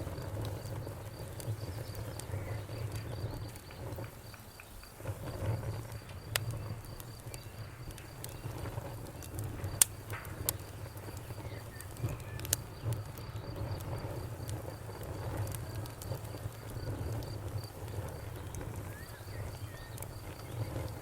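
Campfire crackling, with a few sharp pops about six, ten and twelve seconds in, over a low steady rumble. Crickets chirp steadily in a faint, even pulse behind it.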